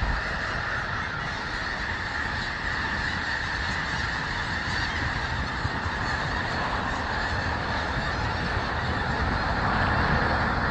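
A large flock of big birds cackling, many calls overlapping into a steady din that grows a little louder near the end.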